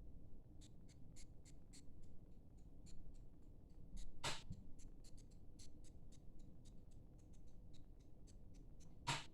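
Faint, irregular light ticking, several ticks a second, with two louder clicks about four seconds in and near the end, over a low rumble of storm wind.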